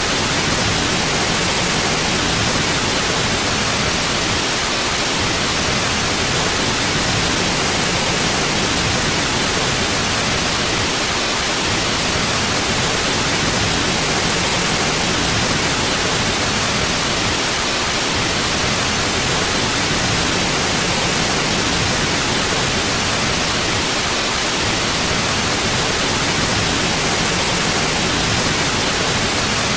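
Steady, unchanging white noise: an even hiss spread across the whole range, with nothing else in it.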